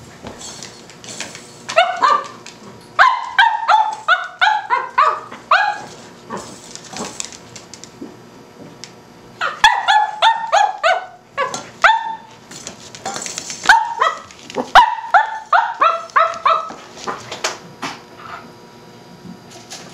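Cavalier King Charles Spaniel puppy barking in quick, high-pitched yaps, in three runs with short pauses between them.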